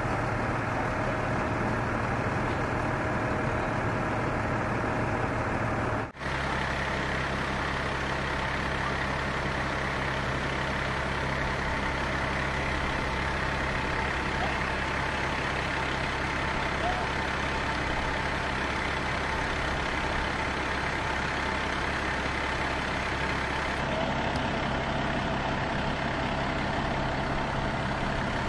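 Heavy vehicle engine idling steadily, a low even drone, briefly cutting out about six seconds in.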